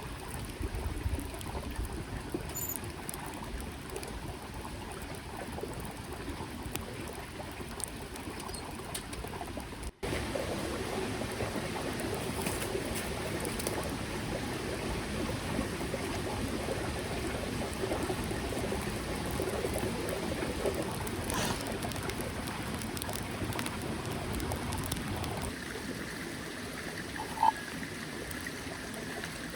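Small mountain stream flowing steadily, a constant rush of water. Near the end there is a short, sharp pitched blip, louder than the water.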